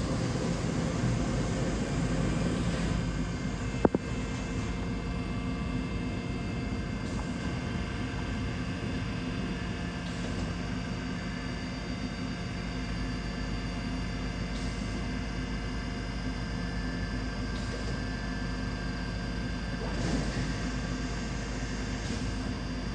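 Five-axis CNC machining centre running, a steady hum with several whining tones, swelling faintly every few seconds, with one sharp click about four seconds in.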